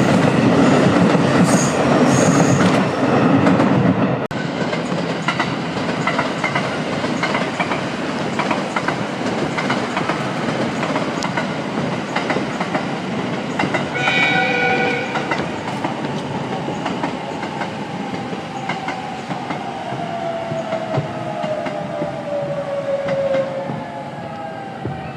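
Electric trains running through a station: a loud close pass for the first four seconds, which cuts off suddenly, then steadier rail-car running noise with clickety-clack. A short horn blast sounds about 14 seconds in, and from about 16 seconds a falling electric motor whine is heard as a train slows.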